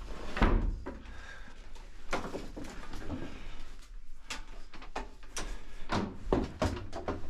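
A series of irregular knocks and clunks, several over a few seconds, with quieter shuffling between them.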